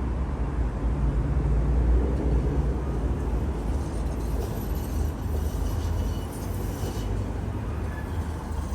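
A PKTS 71-931M Vityaz-M tram running, heard from inside the passenger cabin: a steady low rumble of wheels and running gear on the rails, with faint thin high tones coming in about halfway through.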